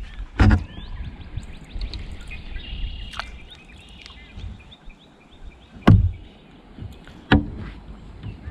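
Birds chirping throughout, with three sharp knocks against the kayak: one about half a second in and two close together near the end.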